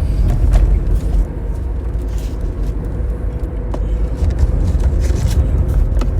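Low, steady rumble of a car heard from inside the cabin, with a few faint clicks.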